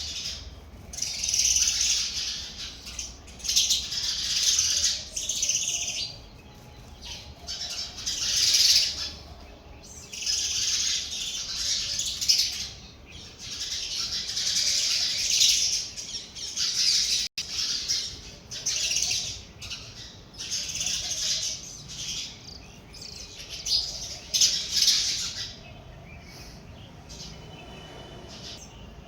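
Sparrows chirping in repeated bursts of a second or two, with short pauses between them.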